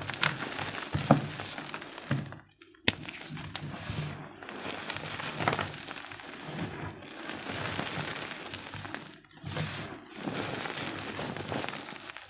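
Gym chalk being crushed and crumbled by hand, a steady crunchy crackling with small snaps. It stops briefly a little past two seconds in, then resumes with one sharp crack.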